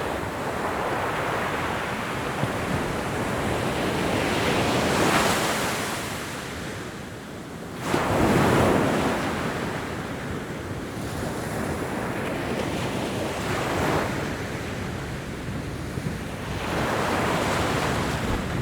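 Ocean waves breaking and washing on a shore in a steady hiss, swelling to louder surges about a third and halfway through and again near the end.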